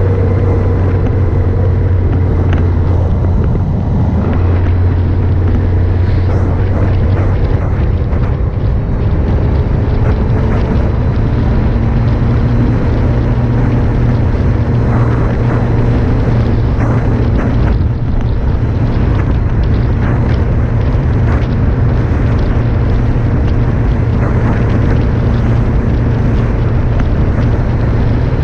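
Motorcycle engine running steadily under way, with its note shifting about four seconds in and again around twelve seconds in. Wind rushes on the camera microphone, with occasional knocks.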